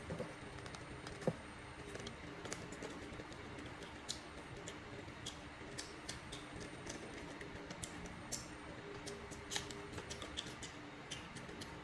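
Faint, irregular small clicks and ticks, a few dozen scattered with no steady rhythm, over a low steady hum.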